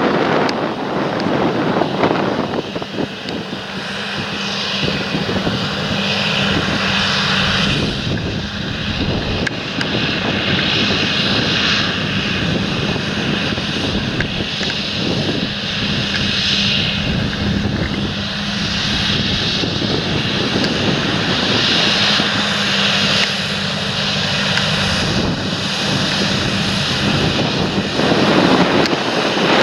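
Large John Deere tractor working in the field: a steady engine drone with a high whine over it. Wind buffets the microphone at the start and near the end.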